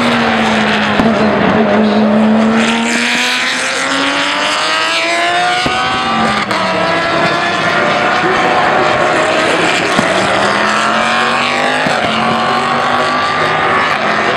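Race car engines running hard on the track, several at once, their pitch climbing and dropping as the cars accelerate, shift and pass.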